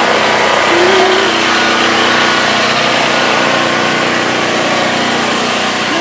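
An engine running steadily: a loud, unbroken drone with a brief higher tone about a second in.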